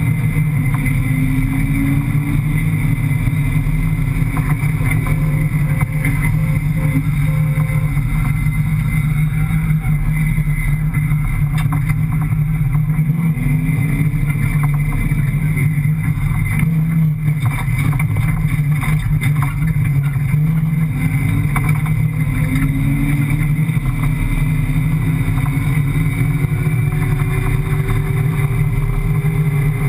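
Rally car's 5.7-litre Hemi V8 running hard in soft sand, heard from inside the cockpit: a loud, steady engine note whose pitch rises and falls several times as the throttle is worked, with scattered rattles and knocks from the car's body.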